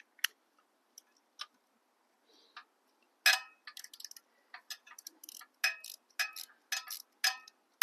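Sharp metallic clinks and taps of steel hand tools and sockets being handled against metal, a few light ticks at first, then a dozen or so irregular ringing strikes, the loudest about three seconds in.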